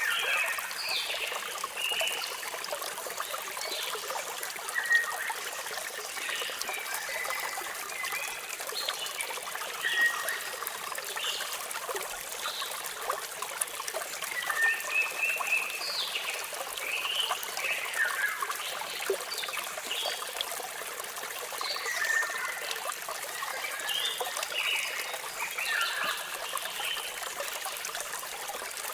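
Waterfall running in a steady splashing trickle, with birds chirping and giving short whistled notes again and again throughout.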